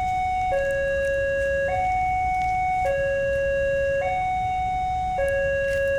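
Railway level-crossing warning alarm sounding as a train approaches: an electronic two-tone signal, a higher tone and a lower tone taking turns about once a second in a steady, even cycle.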